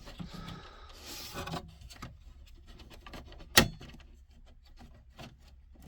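Rustling and handling of a heater's electric cable and its packaging, then one sharp click about three and a half seconds in, with a few faint ticks.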